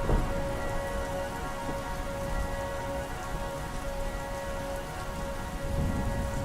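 Recorded steady rain layered over a slowed, reverb-heavy instrumental chord held without a break. A low rumble of thunder comes in briefly at the start and again near the end.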